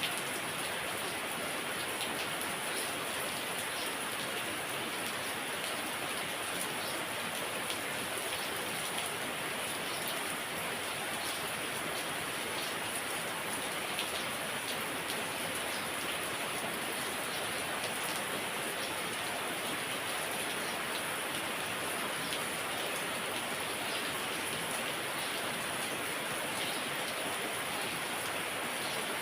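Heavy rain falling steadily: a dense, even hiss with scattered drop ticks, unchanging throughout.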